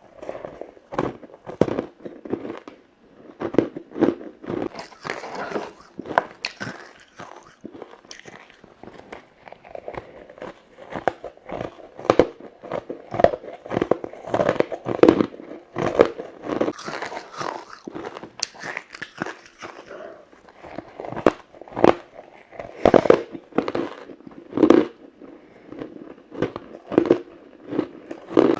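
Someone biting into and crunching frozen matcha ice: repeated sharp cracks and crunches as the ice breaks between the teeth, coming irregularly several times a second.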